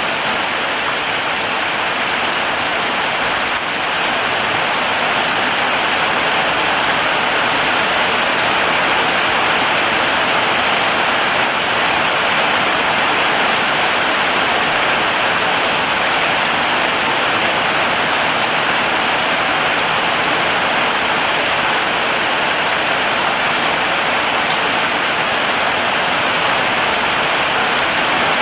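Heavy rain falling steadily, a dense, even hiss of many drops, growing slightly louder about four seconds in.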